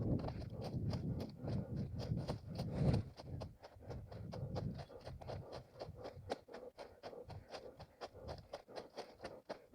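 Running footsteps of an orienteer on forest ground, an even beat of about three steps a second. A low rumbling noise lies under the steps for the first three seconds, then fades.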